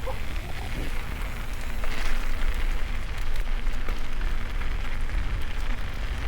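Mountain bike riding a wet, rainy trail: a steady rushing noise with deep rumble and scattered clicks and crackles throughout.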